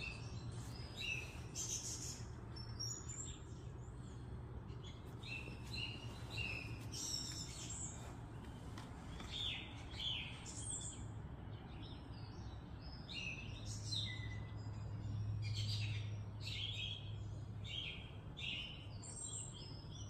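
Several small birds chirping and twittering, short calls overlapping one after another. A low steady hum runs underneath and grows louder for a few seconds past the middle.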